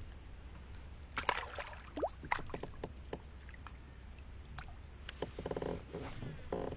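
Scattered clicks and knocks of fishing gear handled in a kayak, with a cluster of them between about one and two and a half seconds in.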